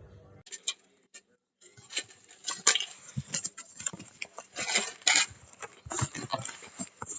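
Irregular clinks, taps and rubbing scrapes of a stainless steel and glass French press being handled, with quick clusters of small hard knocks.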